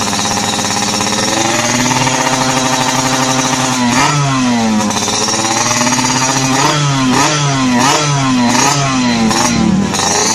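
Yamaha RX-King's two-stroke single-cylinder engine breathing through an aftermarket exhaust, idling, then blipped: one rev about four seconds in, and a quick run of short revs over the last few seconds.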